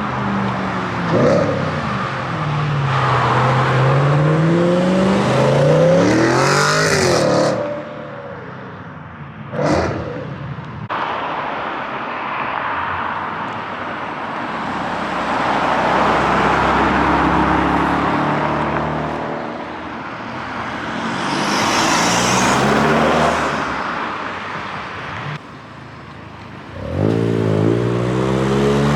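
Several car engines driving past one after another, revving and easing off with the engine note rising and falling. A brief sharp crack comes about ten seconds in, and an engine revs up rising near the end.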